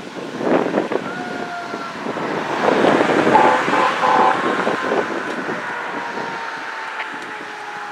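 Fire engine responding code 3, its siren sounding over road and wind noise. A run of short, pulsing horn blasts comes about three seconds in, then a siren tone slowly falls in pitch.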